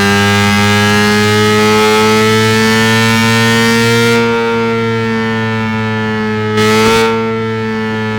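An engine held at steady high revs, a continuous pitched drone whose pitch creeps slightly upward and then eases back as it gets a little quieter. Near the end there is a short, louder blip of revs.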